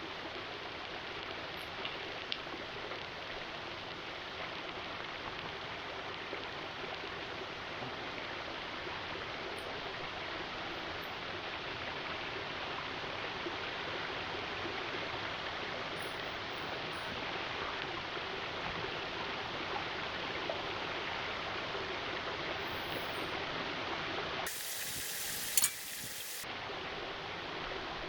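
Steady rushing of running water, like a stream, with a brief brighter hiss and a single tick a few seconds before the end.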